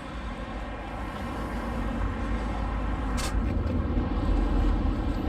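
Steady low outdoor rumble of wind and rushing water, slowly growing louder, with a single sharp knock about three seconds in.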